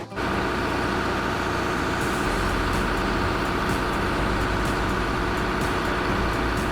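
A heavy machine's engine running steadily, with a constant low rumble and a higher whine above it.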